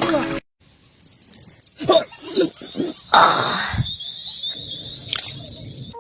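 A cricket chirping in a steady high pulsed trill, with a few light clattering knocks and a brief rushing noise in the middle. Background music cuts off just at the start.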